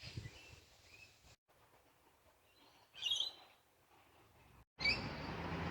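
Wild birds chirping: a few faint high chirps, a short louder call about three seconds in, and more chirping over a steady outdoor background hiss near the end.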